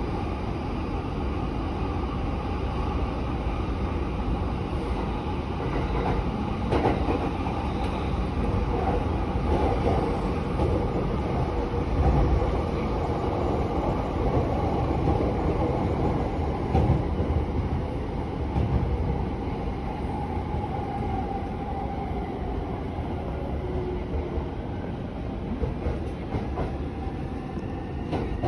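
Electric commuter train running between stations, heard from inside the carriage: a steady rumble of wheels on rail with a few louder clacks over joints, and a faint rising whine near the end.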